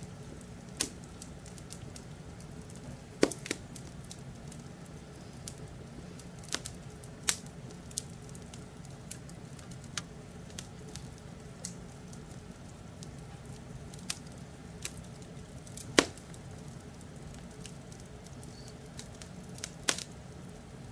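Wood fire crackling in a fireplace: irregular sharp pops and snaps over a steady low rumble, with one louder pop about two-thirds of the way in.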